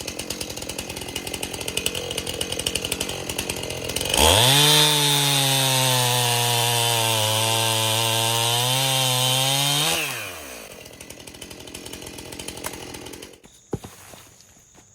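Two-stroke chainsaw idling, then revved to full throttle about four seconds in and held there for about six seconds, its pitch sagging slightly in the middle, before dropping back to idle and shutting off near the end.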